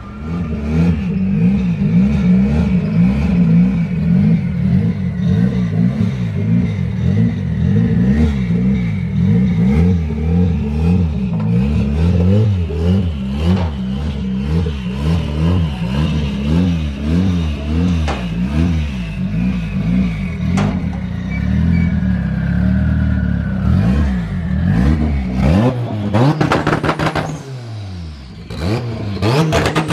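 Turbocharged KA24DET 2.4-litre four-cylinder engine in a Nissan 240SX running under light, uneven throttle at low speed while the car is driven onto a trailer, the revs wavering up and down. Near the end the revs drop, followed by a few quick blips.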